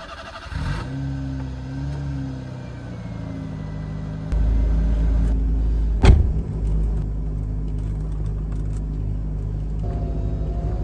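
Daihatsu Copen L880K's small turbocharged four-cylinder engine and exhaust. The engine note comes in about a second in and grows louder and deeper a few seconds later. A sharp knock sounds near the middle, then the engine runs on with a steady pulsing note.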